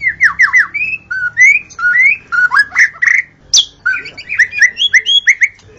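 White-rumped shama (murai batu) singing a fast, varied song of short whistled notes, several a second, many sliding down or up in pitch, with one sharp high note about halfway through.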